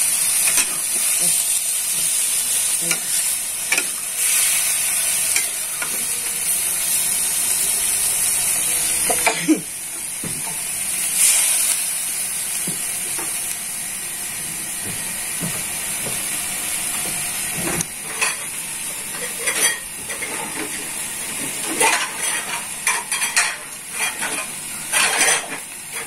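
Squid and shrimp sizzling in a hot wok while a spatula stirs them, scraping and clinking against the pan. The sizzle is loudest for the first nine seconds or so, and the scrapes and clinks come more often in the second half.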